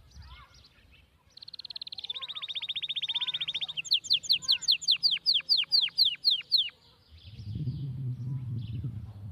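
A songbird singing a fast high trill, then a run of about ten loud, quickly falling whistled notes, with a few softer chirps under it. A low rumbling noise starts near the end.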